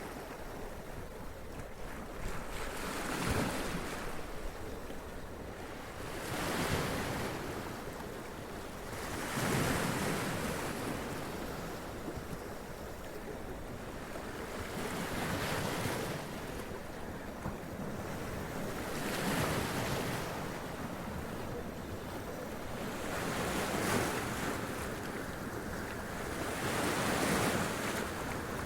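Sea waves washing up onto rocks, each surge swelling and draining away every few seconds over a steady rush of surf.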